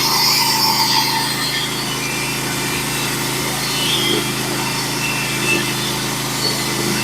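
Norwood HD36v2 band sawmill running steadily under load as its band blade cuts a plank from a pitch pine log.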